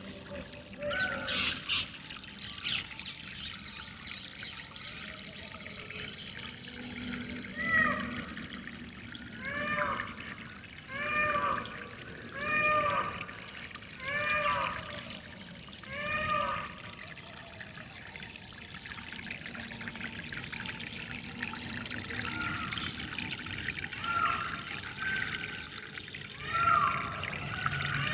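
Water trickling and pouring steadily. Over it, an animal gives a loud repeated call, each an arched note with overtones, about six times at roughly a second-and-a-half spacing through the middle, and again near the end.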